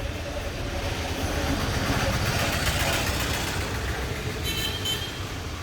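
Kawasaki Z1000's inline four-cylinder engine running steadily at low revs, with a broad rush of noise swelling and fading in the middle.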